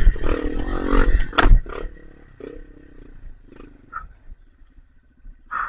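Trail motorcycle engine revving hard, then dropping back to a low idle broken by a few short throttle blips, with one louder blip near the end.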